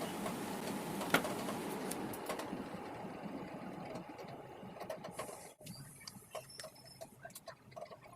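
A small machine running steadily, fading and stopping about halfway through, then scattered light clicks.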